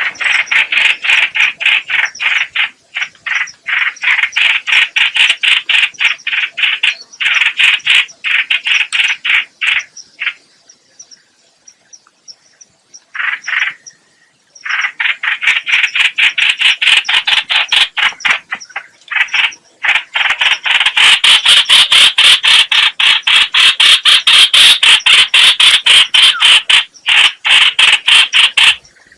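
Trao trảo (chao chảo) bird calling: a fast, harsh chatter of rapidly repeated notes in long runs. There is a pause about ten seconds in, and the chatter resumes with a short burst before the next long run.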